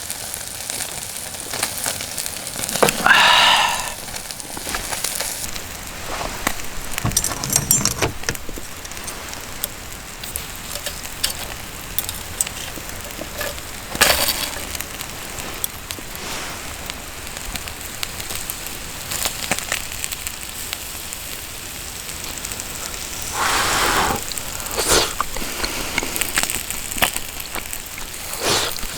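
Wood campfire crackling and popping steadily with many small snaps, broken by a few louder rustles and a sharp knock.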